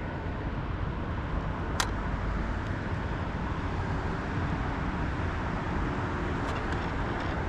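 Steady low outdoor rumble, with one sharp click about two seconds in.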